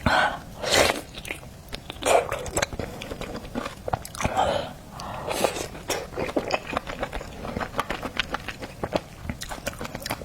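Close-miked mouth sounds of a person eating garlic oysters: several louder wet bursts in the first half, then a quick run of wet clicks of chewing.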